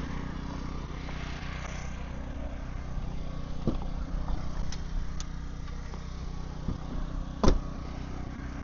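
An engine running steadily at idle, with a few light clicks in the middle and one sharp metallic knock about three-quarters of the way through.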